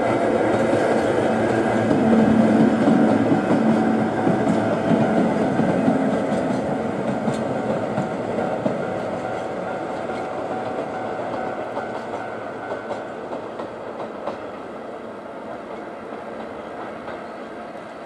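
A short locomotive consist of two electric locomotives with a diesel locomotive between them rolling past on the rails, a steady rumble with wheels clicking over rail joints, fading steadily as it moves away.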